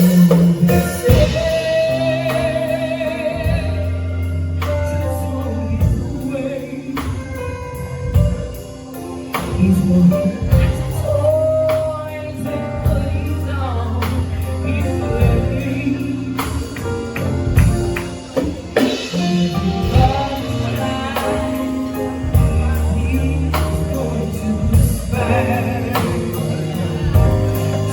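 Live band music with singing: a sustained bass line and chords under a gospel-style vocal line with vibrato.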